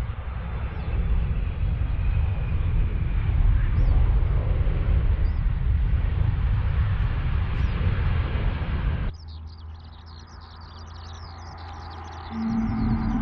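Lamborghini Aventador's V12 running under way with heavy driving noise; after an abrupt cut, the engine hums low with birds chirping, then about three seconds before the end its note steps up louder.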